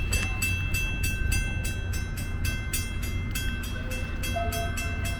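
Metra commuter train standing at the station with its engine running steadily, and a bell ringing rapidly at about four strokes a second.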